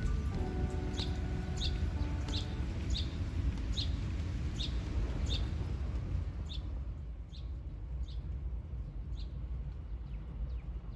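A bird repeating a short, high call that drops in pitch, about once every second, fainter in the second half, over a steady low rumble. Music fades out in the first couple of seconds.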